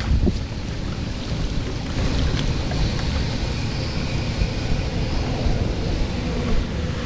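Water rushing steadily as a deep, rumbling noise, with a brief knock just after the start.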